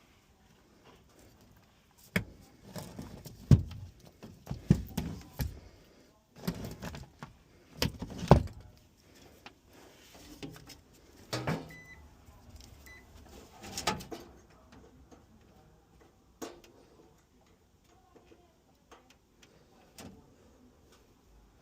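Irregular clunks, knocks and rattles of furnace parts and tools being handled, heaviest in the first half and thinning to a few light taps near the end.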